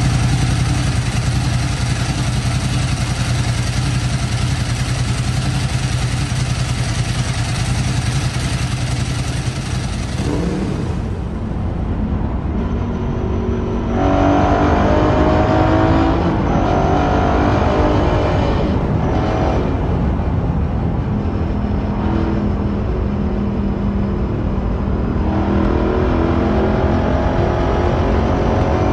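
Ducati Paul Smart 1000 LE's air-cooled L-twin engine idling steadily in neutral for about ten seconds. Then, with the bike under way, the engine accelerates repeatedly, its pitch rising through the revs and dropping at each gear change.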